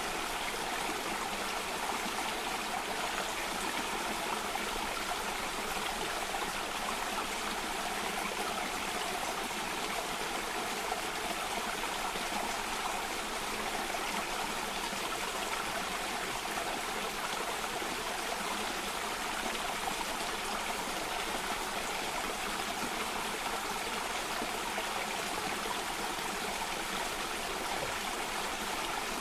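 Flowing water of a stream or small cascade, a steady, unbroken rush and trickle.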